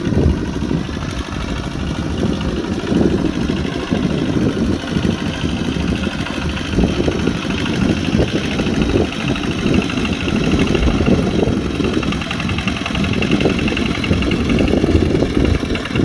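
Kubota RT140 Plus single-cylinder diesel engine of a small tractor running steadily.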